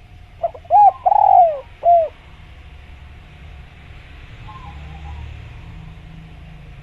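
Spotted dove cooing: one phrase of four notes about half a second in, with a long, falling note in the middle, then fainter coos a few seconds later.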